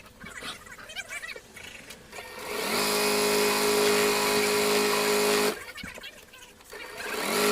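Electric sewing machine running in two bursts: the motor speeds up with a rising whine, stitches steadily for about three seconds and stops, then starts up again near the end. Small clicks and handling sounds come before the first run.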